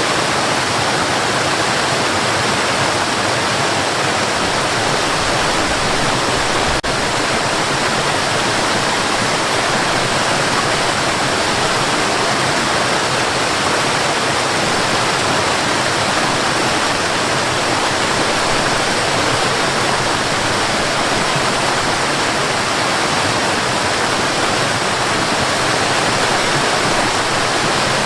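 Waterfall, water rushing in a steady, unbroken roar, with one momentary dip about seven seconds in.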